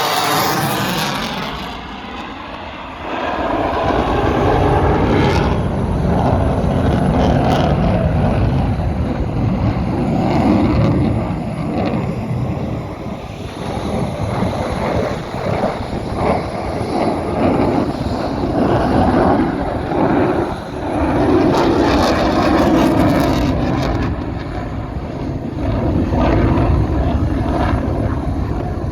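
F-35 Lightning fighter's single Pratt & Whitney F135 jet engine, loud, with a falling sweep in the first couple of seconds as it passes, then a steady rumble that swells and eases.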